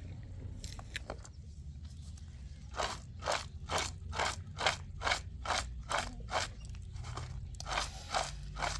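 Repeated short crunching, scraping strokes, about two a second, starting about three seconds in, over a low steady hum.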